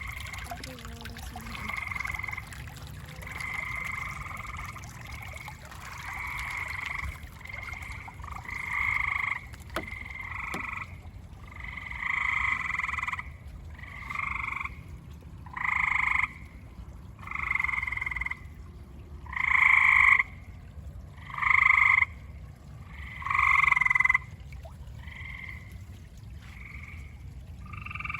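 Frogs calling in a repeated series of trilled calls, each about a second long and spaced a couple of seconds apart, loudest a few seconds before the end.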